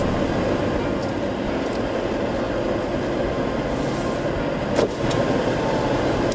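Steady engine and tyre noise inside a 2010 Jeep Wrangler's cabin as it drives on snow, with a single click about five seconds in.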